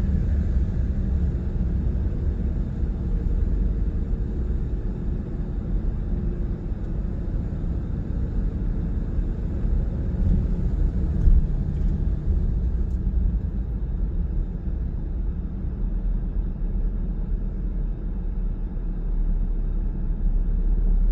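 Car driving at steady speed: continuous low road and engine rumble heard from inside the cabin, with a short bump about eleven seconds in.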